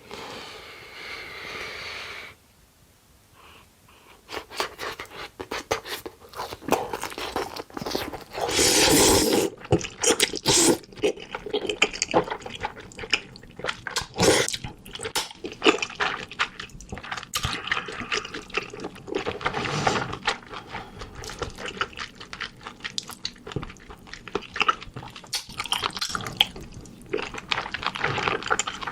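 Close-miked eating of spicy noodles with cheese: wet slurping, smacking and chewing with many small sticky clicks, and a louder long slurp about eight seconds in. It opens with a steady wet hiss for about two seconds.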